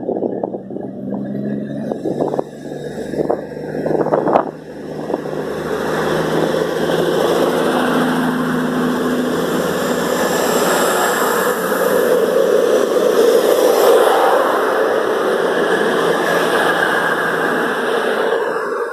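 CrossCountry Voyager diesel multiple unit pulling out of the station, with a few knocks at first, then its engines working under power from about five seconds in and staying loud.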